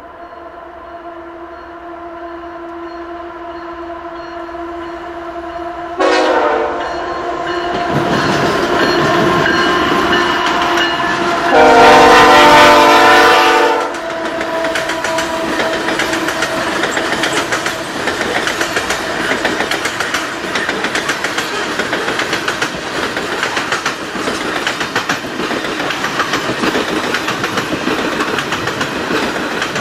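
Westbound coal train's lead locomotive, CP 8717, a GE ES44AC, sounds its multi-chime air horn for a grade crossing. The horn grows louder as the train approaches, with a sharp jump about six seconds in, and is loudest as the locomotives pass, before cutting off about fourteen seconds in. After that the loaded coal cars roll past, their wheels making a steady rumble with a fast, even beat of clicks over the rail joints.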